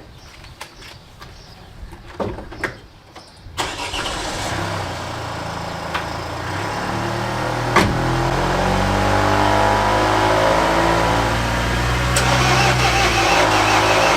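A few light clicks, then about three and a half seconds in the MINI R56's 1.6 HDi DV6 diesel engine is cranked and fires. It runs on with a steady engine note whose pitch wavers and that grows louder.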